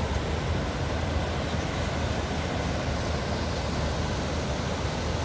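Waterfall's steady rush of falling water, an even noise that is deepest in the low end and never changes.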